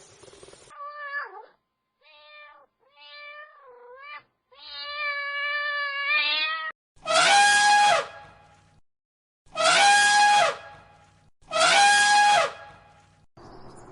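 Domestic cat meowing: a string of short, softer meows, then three loud drawn-out meows about two seconds apart.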